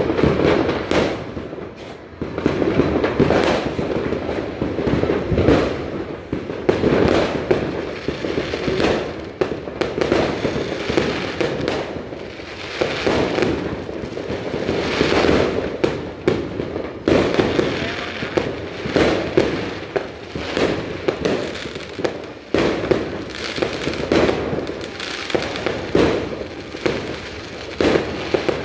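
New Year's fireworks and firecrackers going off nonstop: many sharp bangs at irregular intervals, one after another, over a steady din of further explosions.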